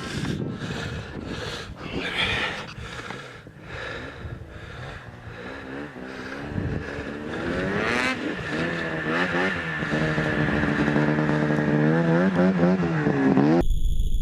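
Snowmobile engine running under way, its pitch rising and falling with the throttle and growing louder in the second half, with wind noise buffeting the microphone early on. Near the end it cuts off suddenly to a few steady electronic tones.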